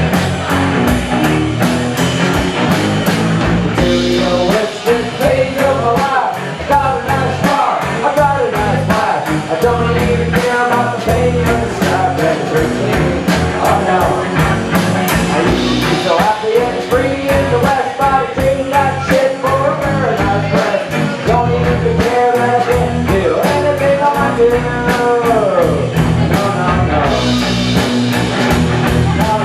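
Loud rock music, an instrumental passage with a steady drum beat under a gliding, bending lead melody and no sung words.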